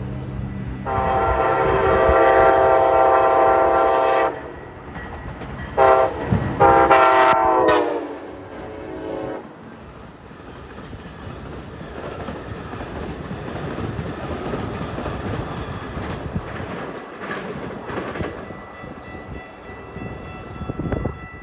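Amtrak Empire Builder passenger train, led by two ALC-42 locomotives, sounding its horn: a long blast, a short one and another long one. Then the train's wheels run over the rails as it passes at speed.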